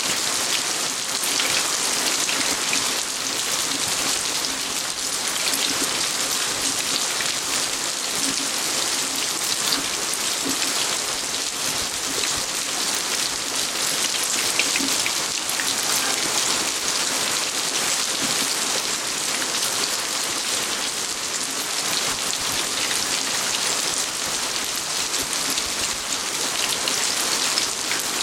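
Steady rain falling on a garden, a dense even patter of drops with many small individual drop ticks.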